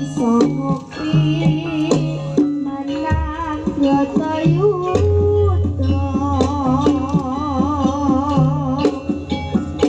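A young sinden, a Javanese female vocalist, singing with wavering, ornamented held notes over instrumental accompaniment with regular drum strikes; a low bass note joins about five seconds in.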